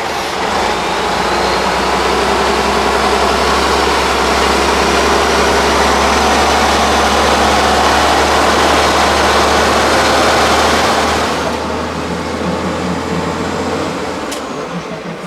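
Tatra 8x8 truck's diesel engine running loud and steady, then dropping back about two-thirds of the way through.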